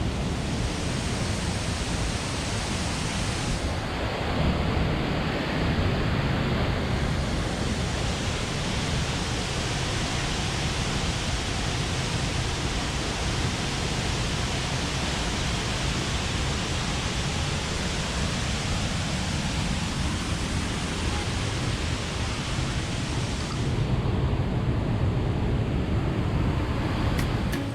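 Waterfall thundering steadily: a loud, unbroken rush of falling water crashing into the pool below.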